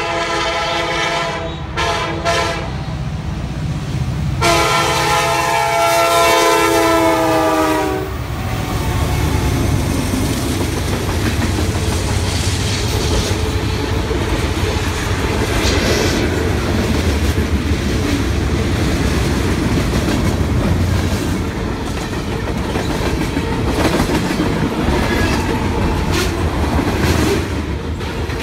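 CSX SD70MAC locomotive sounding its air horn while passing at track speed: a long blast, two short toots, then a long loud blast whose pitch drops as the locomotive goes by. After that comes the steady rumble and clickety-clack of freight cars (tank cars and covered hoppers) rolling past.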